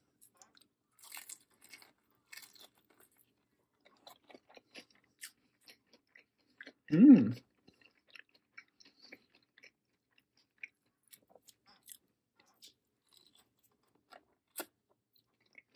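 Chewing and crunching on a crispy fried chicken drumstick close to the microphone, heard as soft scattered crackles. About seven seconds in, one short, loud hum of the eater's voice.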